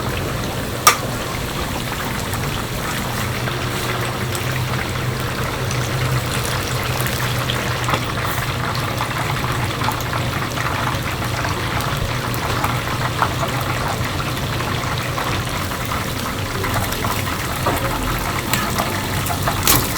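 Steady rushing, water-like noise over a low steady hum, with one sharp click about a second in.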